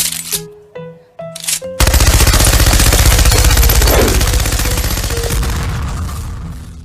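Short plinking melody, then about a second and a half in a loud, very fast rattling sound effect starts and runs for several seconds, fading out near the end.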